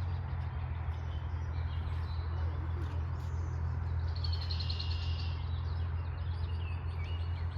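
A songbird singing a short, rapid phrase of high notes about four seconds in, followed by a few shorter chirps, over a steady low hum.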